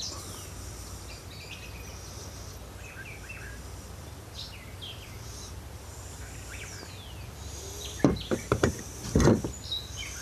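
Small birds chirping over a steady low background hum, then a quick cluster of sharp knocks and clinks between about eight and nine and a half seconds in, the loudest sounds here. The knocks come from handling the parts of a partly stripped two-stroke dirt bike engine as its top end comes apart.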